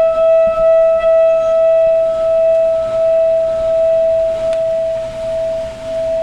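Tibetan singing bowl ringing one long, steady tone with overtones above it, its loudness wavering gently.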